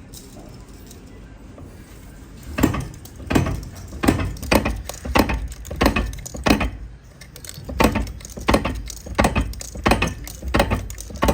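Repeated sharp metal-on-metal clanks, about three every two seconds, starting a couple of seconds in with a brief pause in the middle: metalworking strokes on drum steel.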